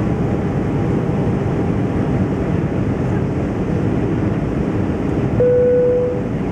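Steady cabin noise of an Airbus A320-200 in flight: a dense rumble of airflow and engines. A single steady electronic tone sounds for just under a second near the end.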